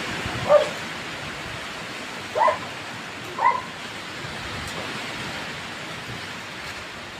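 Steady wind noise on the microphone, broken by three short yelps about half a second, two and a half and three and a half seconds in.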